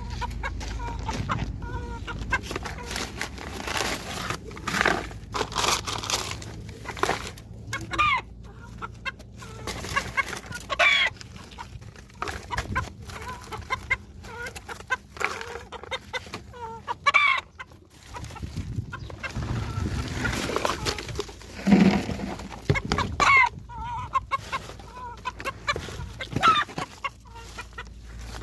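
Domestic poultry making many short, irregular clucking calls, with scattered knocks and scratches among them.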